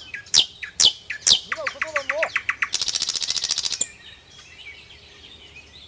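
Wild birds calling: three sharp, quickly falling whistled notes, then a fast run of clicking notes and a buzzy, rattling trill lasting about a second, after which only faint chirps remain.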